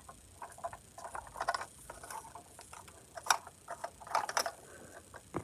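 Light clicks and rattles of a small plastic model being handled, with a sharper click about three seconds in and another near the end.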